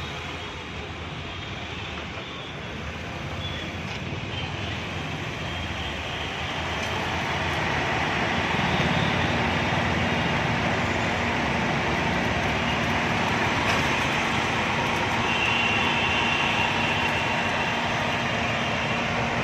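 Chevrolet Beat running with its AC on and the blower on full: a steady mechanical and airflow noise that grows louder about seven seconds in and then holds.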